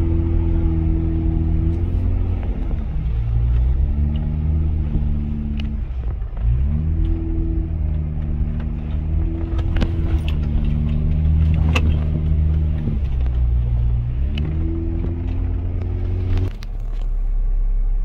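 Jeep engine running under load through deep snow. Its note drops and climbs again a few times as the throttle is eased and reapplied, with a few sharp clicks. Near the end the engine note cuts to a steady low rumble.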